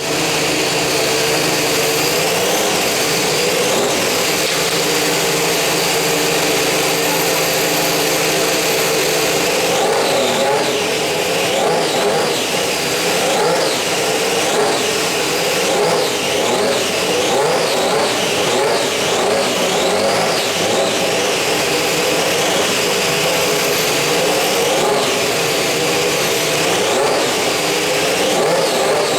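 Ferrari SF15-T Formula One car's 1.6-litre turbocharged V6 running stationary while being revved. The revs rise and fall again and again, the blips coming more often from about ten seconds in.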